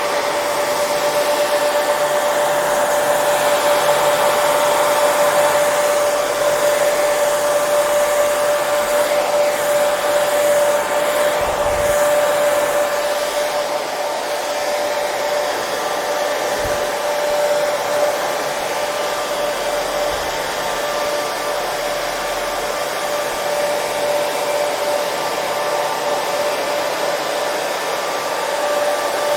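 Hair dryer running steadily: a constant rush of air with a steady motor whine. A couple of faint low thumps partway through.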